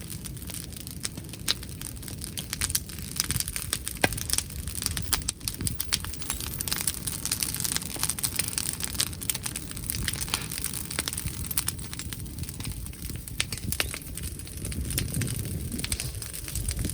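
Wood bonfire crackling and popping with many irregular sharp snaps, over a steady low rumble of wind.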